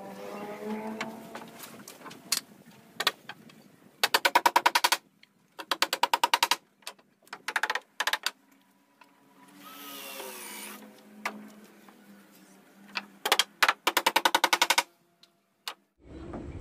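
Power tool hammering in rapid bursts of about a dozen impacts a second, several bursts each lasting up to a second and a half, with a motor whirring between them.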